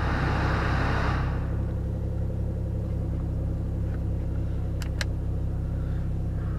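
Toyota Supra Mk4's inline-six engine idling steadily. A rushing hiss fades out in the first second and a half, and two sharp clicks come close together about five seconds in.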